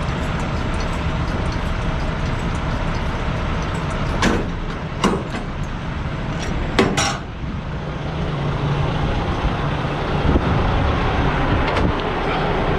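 Semi truck's diesel engine running with a steady low rumble, with a few short sharp knocks around the middle.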